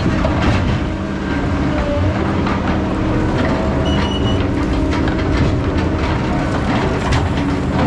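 Heavy diesel logging machinery running under load, with a steady engine drone and frequent metallic clanks and rattles. A brief high squeal comes about four seconds in.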